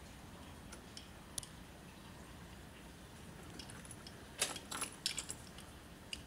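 A few light clicks and rattles: one about a second and a half in, then a short cluster about four to five seconds in, over faint background hiss. No engine is running.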